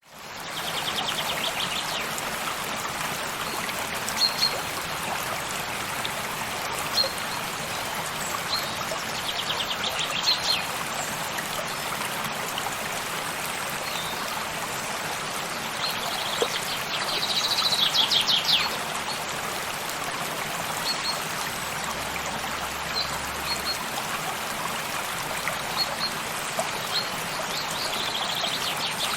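A stream running steadily, with a songbird repeating a short rapid trill every eight to ten seconds, loudest about two-thirds of the way through, and single short chirps between.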